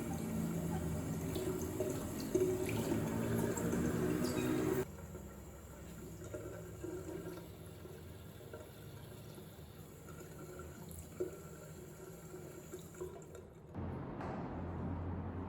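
Water running from a tap into a sink, cutting off abruptly about five seconds in, followed by quieter handling sounds with a few small clicks.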